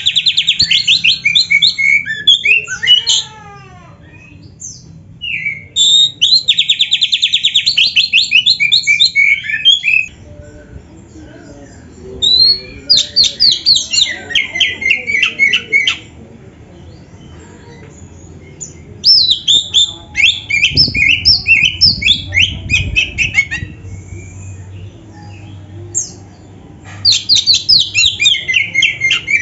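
Oriental magpie-robin (black-breasted kacer) singing loud bouts of fast trills and chattering, five phrases of a few seconds each, separated by short pauses, over a faint low hum.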